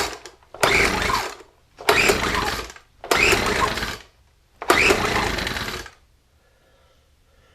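Recoil pull-starter of a Poulan Pro SM400 leaf blower's small two-stroke engine yanked four times, each pull a roughly one-second burst of cranking, the last one slightly longer. The engine is choked and primed with gasoline poured into the chamber after a piston ring replacement; it cranks with better compression and tries to fire but does not catch and run.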